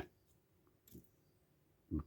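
A quiet pause with one faint, short click about a second in.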